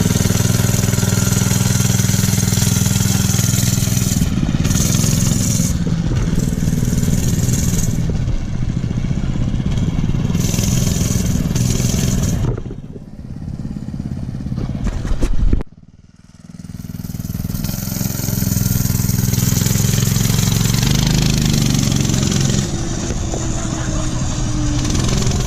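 Mega Moto 212cc minibike's small single-cylinder four-stroke engine running under throttle as the bike is ridden on its first ride. The engine note fades and briefly drops out a little past halfway, then comes back.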